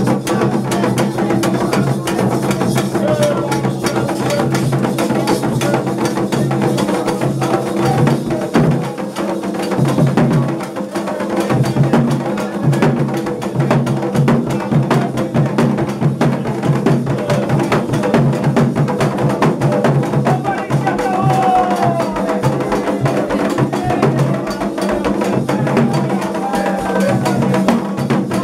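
Candomblé ritual drumming: hand drums played in a fast, continuous rhythm, with a sharp, clacking timeline part over them.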